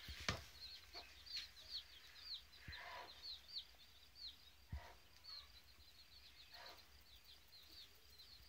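Faint peeping of small birds: short, high chirps that fall in pitch, about three a second, with a few soft knocks among them.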